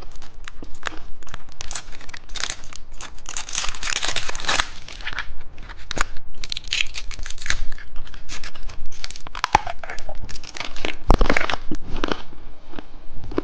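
Crinkly candy wrappers and packaging being handled, crumpled and torn open, a dense irregular crackling with louder rustles about eleven seconds in.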